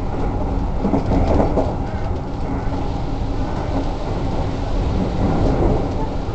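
Keikyu electric train running at speed: a dense, steady rumble of wheels and running gear on the rails.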